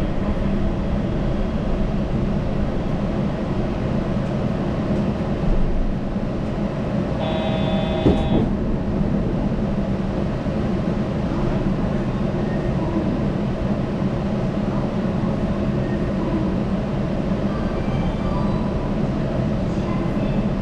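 Yurikamome rubber-tyred automated guideway train running, a steady rolling and motor noise heard from inside the front car. About seven seconds in, a short electronic tone sounds for about a second.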